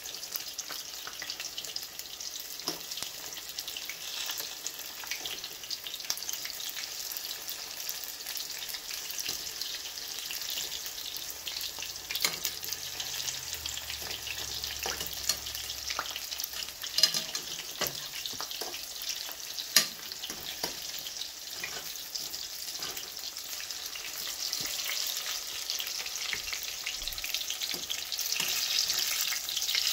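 Saltfish fritters sizzling and crackling steadily as they shallow-fry in hot oil, with scattered sharp clicks of a metal fork against the pot as they are turned, two of them louder about halfway through.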